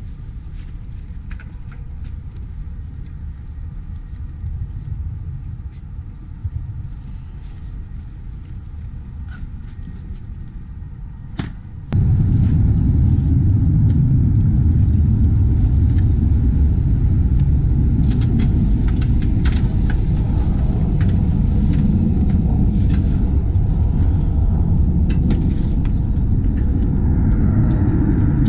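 F-16 fighter jet engine rumbling. About twelve seconds in, the rumble jumps suddenly to a much louder level. In the later part a thin high whine falls slowly in pitch.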